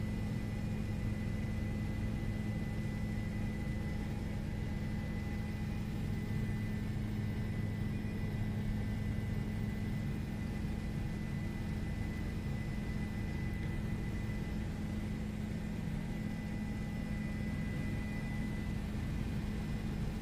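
Steady helicopter drone, an unbroken hum of engine and rotor with a few constant tones.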